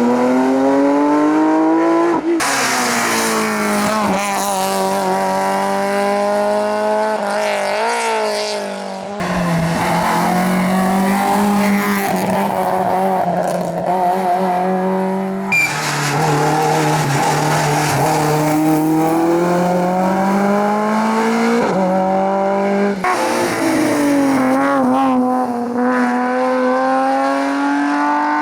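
Competition cars on a hillclimb, engines run hard at high revs: the pitch climbs and drops with gear changes and throttle. The sound switches abruptly about five times from one car to another.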